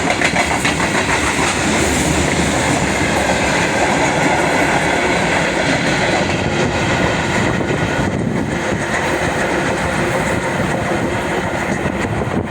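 Freight train wagons rolling past at speed, wheels clacking steadily over the rail joints with a continuous rumble of running gear.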